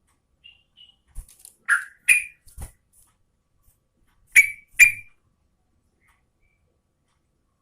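Yellow-vented bulbul (trucukan) singing short, clear whistled notes in scattered bursts: a few soft notes, then a loud group of three, then a loud pair about four and a half seconds in.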